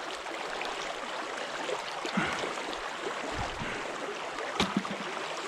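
Creek water running steadily over a shallow riffle, with a few soft knocks, and one sharp click about four and a half seconds in.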